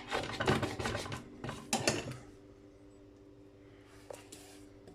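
Scrap brass light-fitting parts being handled: metal pieces clattering and scraping together for about two seconds, then only a faint steady hum.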